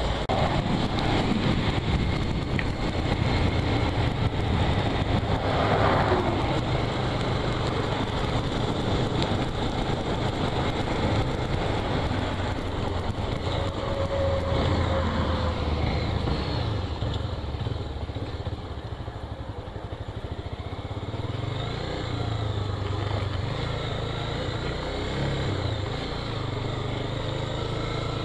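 Motorcycle engine running steadily while riding on the road, with a steady rush of road and wind noise; it eases off briefly about two-thirds of the way through.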